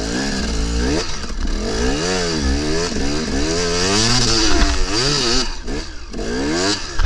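KTM 300 single-cylinder two-stroke dirt bike engine on and off the throttle while riding, its pitch rising and falling again and again, with a hiss of wind and spray over it.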